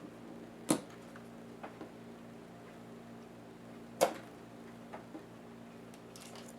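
Small, hard clicks of tools and plastic laptop parts being handled during disassembly. There are two sharp clicks about three seconds apart, each followed by a couple of fainter ticks, over a steady low hum.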